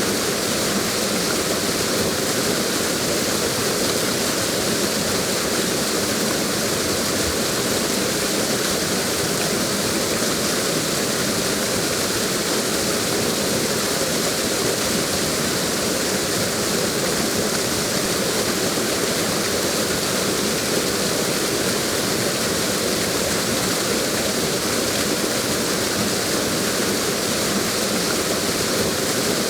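Waterfall: a steady, unbroken rush of falling water, an even hiss across lows and highs with no single sound standing out.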